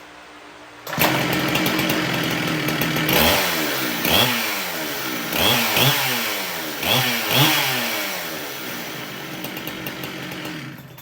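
Two-stroke chainsaw engine, just repaired, running: it comes in suddenly about a second in, is revved up and down five or six times, then runs at a lower, steadier speed before cutting off at the end.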